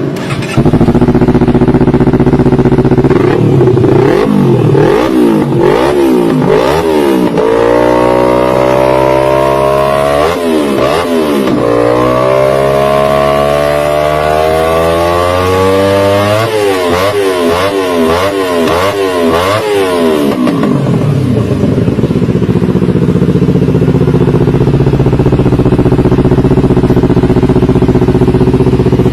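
Kawasaki ZX-25R's 250 cc inline-four engine through a LeoVince GP Corsa Evo aftermarket exhaust, starting at idle and then revved. First come a few quick throttle blips, then long climbs to high revs, then a run of rapid blips. Near the end it drops back to a steady idle.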